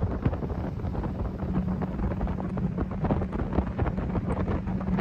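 Wind buffeting the microphone over the steady drone of a moving river boat's motor, whose hum grows stronger about a second and a half in.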